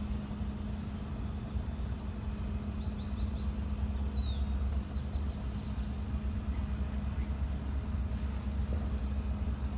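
Steady low background rumble with a constant hum. A few faint high chirps come through about three to four seconds in.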